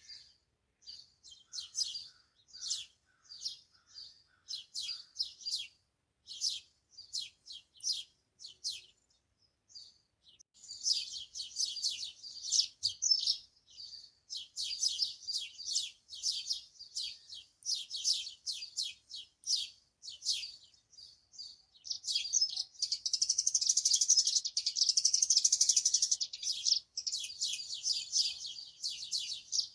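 Small birds chirping: strings of short, high chirps, sparse at first and much busier from about a third of the way in, with a loud, fast continuous chatter held for several seconds near the end.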